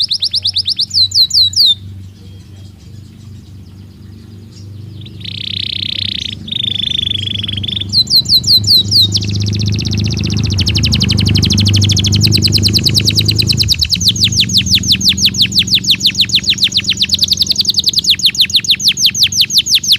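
Belgian canary singing: rapid trills of quickly repeated high notes, a short pause and two buzzy notes near the middle, then one long fast trill. A steady low hum runs underneath.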